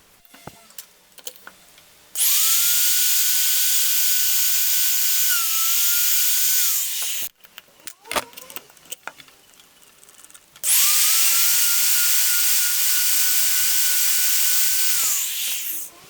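A power tool runs in two bursts of about five seconds each, with its pitch rising as it spins up and falling as it stops. Small clicks and knocks of handling come between the bursts.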